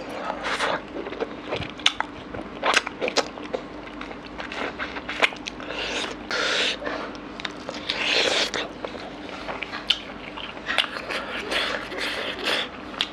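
Close-miked chewing of mutton curry and rice, with irregular wet lip smacks and mouth clicks, over a faint steady hum.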